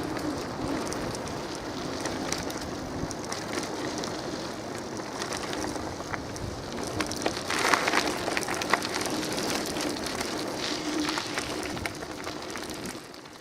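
Bicycle being ridden: a steady rush of tyre and road noise with many small clicks and rattles, which grows louder and rattlier for a moment about eight seconds in.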